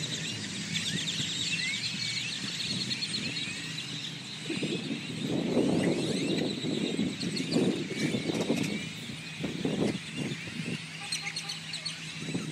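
A huge flock of birds calling and chirping all at once, a dense unbroken din. From about four seconds in to about eleven seconds, a lower rumbling noise rises underneath it.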